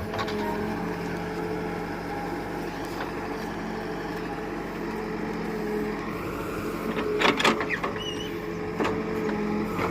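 A tractor's diesel engine running steadily, with a few sharp clanks about seven and nine seconds in.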